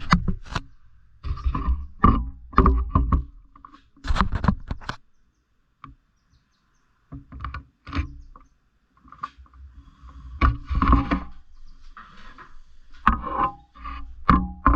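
Pet lovebirds moving about and pecking in their cage: irregular knocks, scrapes and rustles with short pauses between.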